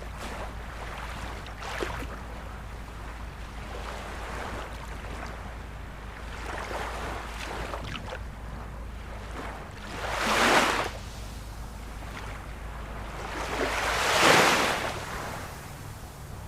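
Ocean surf washing steadily, with two louder waves surging in, one about ten seconds in and a bigger one near the end, over a low rumble.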